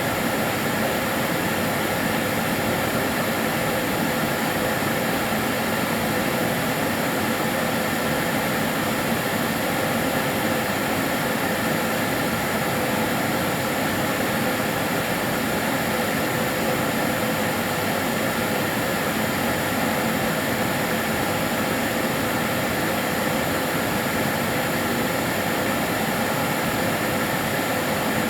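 Kärcher DS 6 Premium water-filter vacuum cleaner running continuously: a steady, even whoosh of motor and airflow with a faint whine, unchanging throughout.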